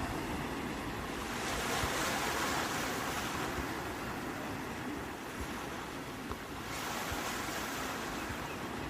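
Sea waves breaking and washing on the shore, a steady rush of surf that swells about a second and a half in and again near the end.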